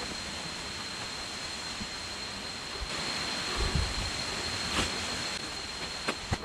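Steady rush of water from a jungle stream and waterfall, with a thin steady high tone above it. A few soft low thuds come about halfway through.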